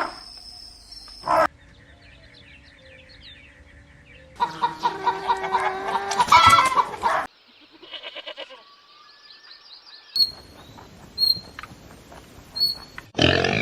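Birds calling and chirping in several short, separate clips, with louder pitched calls in the middle.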